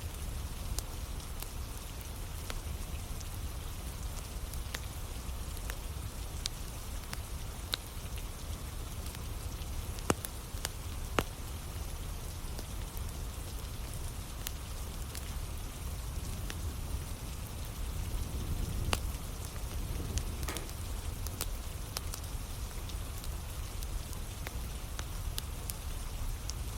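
Steady rainfall with the scattered sharp crackles and pops of a wood campfire burning, a couple of louder pops about ten and eleven seconds in.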